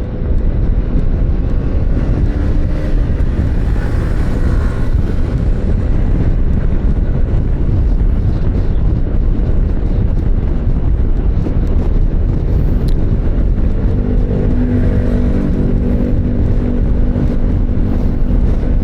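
Motorcycle riding along, its engine running under a heavy rush of wind on the microphone. A steadier engine hum comes in over the last few seconds.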